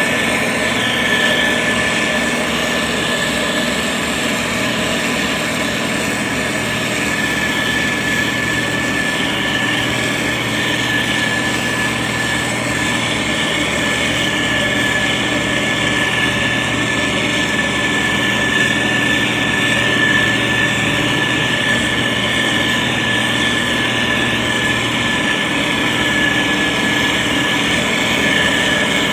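Diesel engine of a SANY STG190C-8S motor grader running steadily under work, with a constant high-pitched whine over the engine note.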